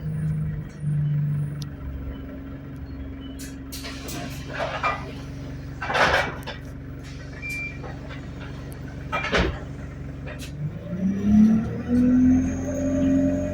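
ADL Enviro200 single-decker bus's diesel engine running steadily at idle, with a few short bursts of hissing. About eleven seconds in, the engine pitch rises as the bus pulls away, and a faint high whine joins it.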